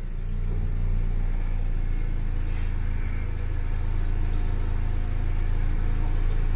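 Car engine idling steadily with a low, even hum, most likely the 2019 Honda Accord Sport running while its new tail lights are checked.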